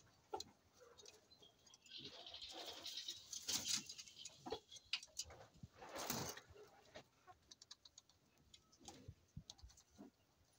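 Birds moving about in their pen: scattered light taps and clicks with a couple of brief rustling bursts, about two to four seconds in and again about six seconds in.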